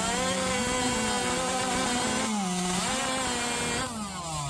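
Racing hot saw (a modified competition chainsaw) running at full throttle through a timber cut. Its high engine note sags under load about two seconds in, recovers, then winds down in pitch near the end as the cut finishes.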